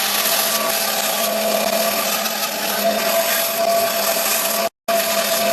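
A power tool running steadily while working wood, a constant whine over the noise of cutting. It cuts out abruptly for a moment near the end and resumes.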